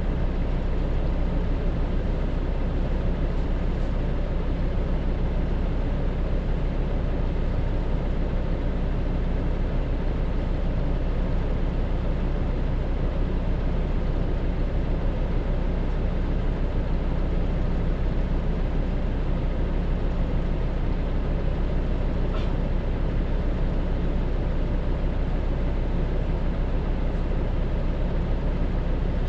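Hino J07E diesel engine of a city bus running at a steady, unchanging engine speed, heard from inside the cabin, with a faint click about 22 seconds in.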